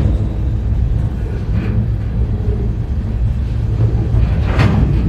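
Steady low rumble of a moving freight train heard from aboard one of its cars, with a brief clank about a second and a half in and another near the end.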